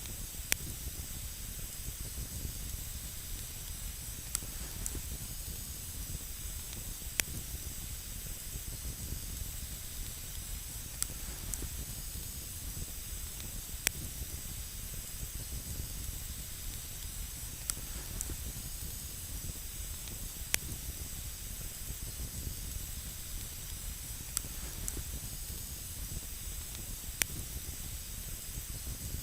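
Wood campfire burning with a steady hiss and low rumble, broken by sharp crackles and pops every few seconds.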